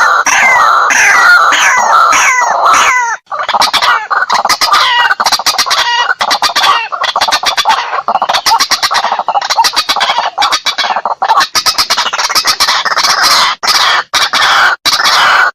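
White-breasted waterhen calling loudly and without a break. A quick series of falling notes runs for about the first three seconds, then turns into a dense, fast, stuttering chatter of repeated croaking 'kruak' notes. This is the recorded lure call used to draw the birds in.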